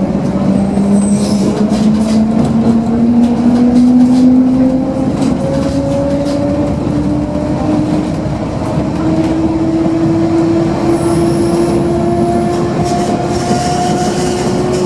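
Old electric suburban train heard from inside the carriage as it accelerates away from a station: the drive whine climbs steadily in pitch over the running noise of the wheels on the track, with scattered clicks and rattles.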